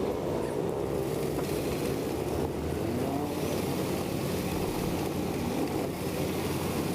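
A heavy engine running steadily with a low, even rumble and a constant hum, the sound of machinery at work.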